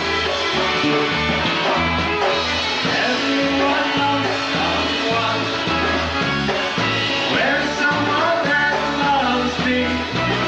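Live polka band playing a number, with a steady bass beat and some singing.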